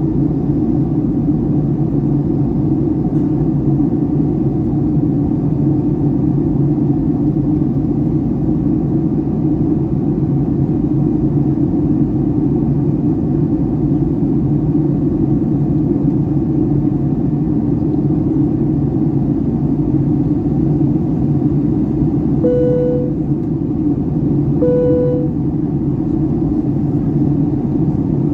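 Steady roar of airflow and engines inside the cabin of a Boeing 757-300 in flight. Near the end, two short chimes of the same pitch sound about two seconds apart.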